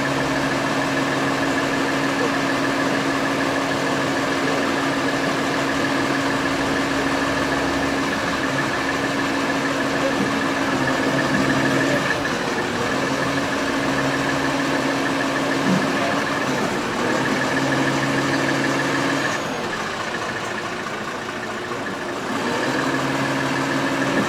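An engine idling with a steady hum. The hum drops away for a few seconds near the end, then picks up again.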